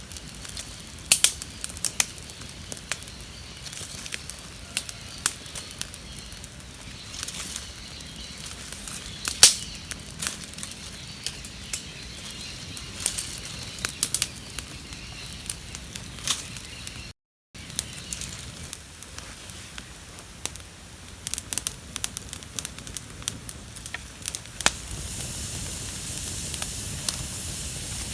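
Wood campfire crackling, with irregular sharp pops over a steady low rush of flame. Near the end a steadier hiss grows louder under the crackle.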